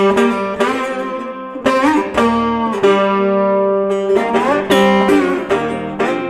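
Blues guitar intro: plucked, sustained notes with a few bent upward, played as the song's instrumental opening before the singing starts.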